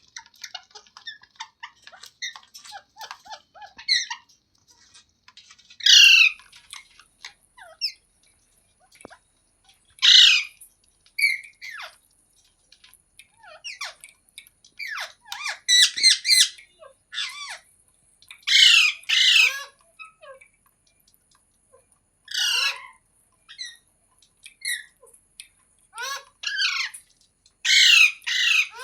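Rose-ringed parakeet (green ringneck parrot) squawking: loud, harsh screeches every few seconds, many falling in pitch, with softer chirps and chatter in the first few seconds.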